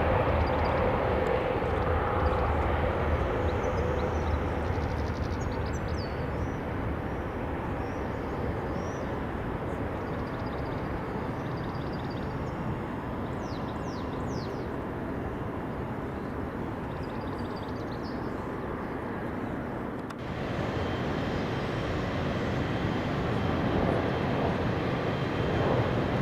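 Jet airliner engines taking off, a broad steady rumble that eases off over the first few seconds as the aircraft climbs away. About twenty seconds in the sound breaks off abruptly, and then jet noise builds again toward the end.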